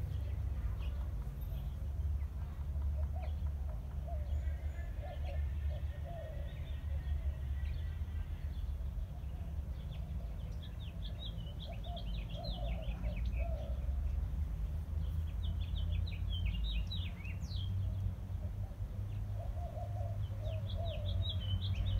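Wild birds calling: recurring lower warbling calls, joined by clusters of rapid high chirps about halfway through, again a few seconds later and near the end, over a steady low rumble.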